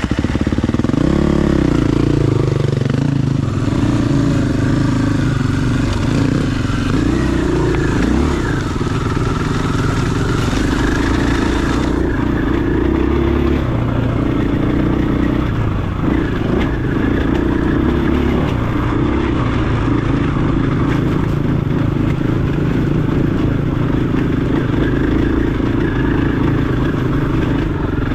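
Dirt bike's single-cylinder four-stroke engine running on a trail ride, its pitch rising and falling with the throttle and a quick rev about a second in.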